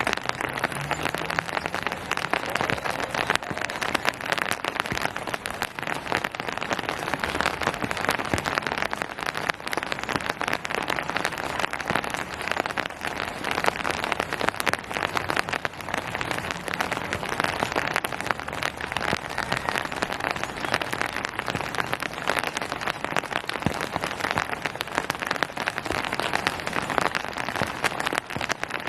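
Steady rain falling on surfaces, a dense patter of many close drops.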